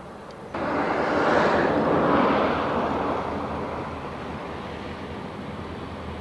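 Diesel freight train noise: a loud rush of engine and rail sound that starts suddenly about half a second in, then fades over a few seconds to a steady, quieter rumble.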